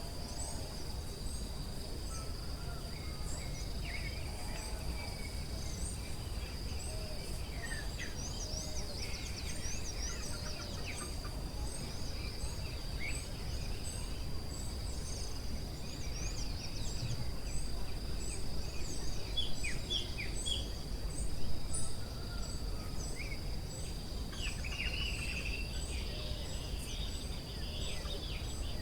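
Forest ambience: assorted birds chirping over a steady high-pitched drone, with a fast, evenly repeating chirp above it and a low rumble underneath.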